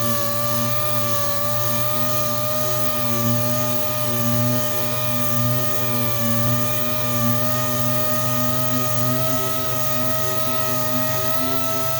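Dual-action orbital sander with a 180-grit hook-and-loop disc running steadily on a car hood, sanding oxidized paint down smooth before primer. It gives a steady whine whose pitch wavers slightly as the sander is pressed and moved across the panel.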